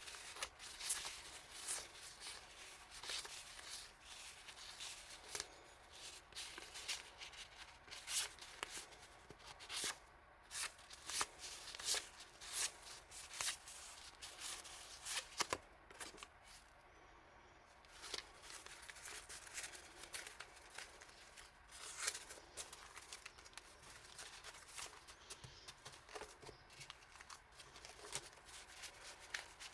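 Hands handling paper goods and their packaging: irregular rustling, crinkling and light taps and clicks, with a short pause about two-thirds of the way through.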